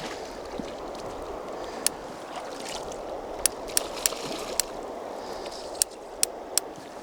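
River water flowing steadily, with a scattering of about eight sharp clicks in the second half.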